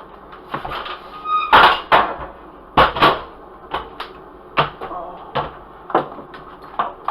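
Kitchen handling noises: a run of sharp knocks and clatters, about ten in all, with a short squeak shortly before the loudest knock near the start.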